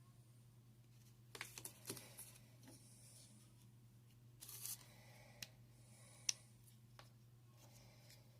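A few faint clicks and rustles, as of small objects being handled, over a low steady hum; one sharp click about six seconds in is the loudest.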